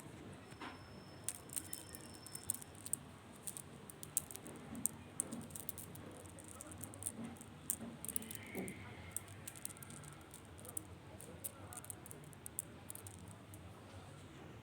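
Kitten playing: quick, light clicks and patter of its paws and claws, coming irregularly and in little flurries.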